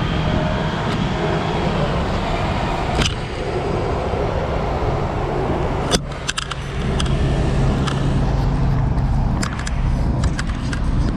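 Road traffic with a nearby vehicle's engine running in a steady low hum. Two sharp knocks come about three and six seconds in, and a run of small clicks near the end.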